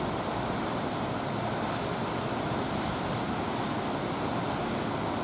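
Torrential rain pouring down, a dense, steady hiss without letup.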